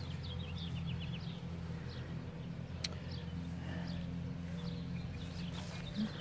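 Songbirds chirping in quick runs of short high notes, over a steady low hum. A single sharp click about three seconds in.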